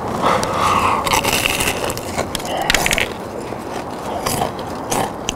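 Close-miked crunching and chewing of crispy fried chicken batter: a dense run of crackles, with a few louder crunches around the middle.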